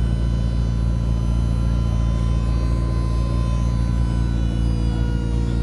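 McLaren P1's twin-turbo V8 idling steadily, a deep rumble with a thin high whine over it.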